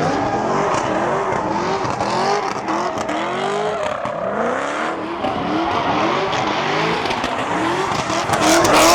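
Car engine revving hard and falling back over and over, about twice a second, with tire squeal from a car doing donuts. It gets louder near the end.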